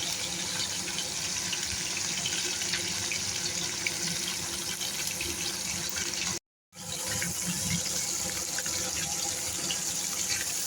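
Pieces of phasa fish frying in hot mustard oil in a kadai: a steady sizzle with fine crackling, which cuts out for a moment a little past the middle.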